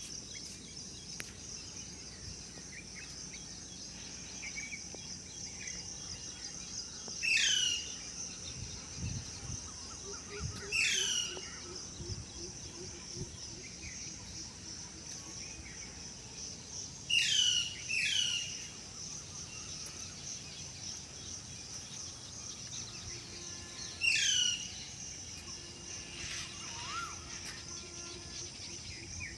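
A bird repeating a short, quickly falling call phrase five times, well spaced and louder than everything else, over a steady high insect drone.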